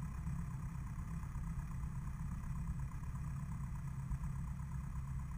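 Light aircraft's piston engine idling steadily with the propeller turning, an even low hum.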